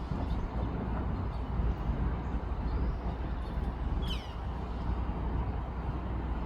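A small bird gives a single short chirp that falls in pitch about four seconds in. Under it runs a steady low outdoor rumble.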